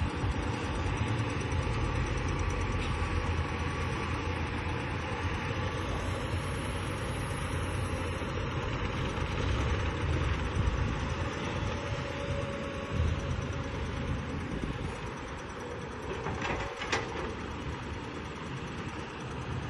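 Cat 320D hydraulic excavator's diesel engine running steadily, with two short sharp knocks about three quarters of the way in.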